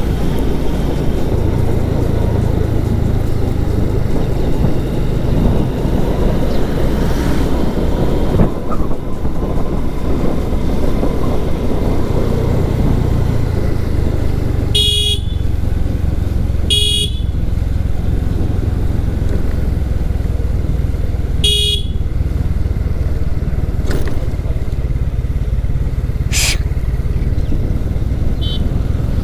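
Small single-cylinder TVS Victor motorcycle running at road speed, a steady low engine and wind rumble. A vehicle horn gives three short toots in the second half.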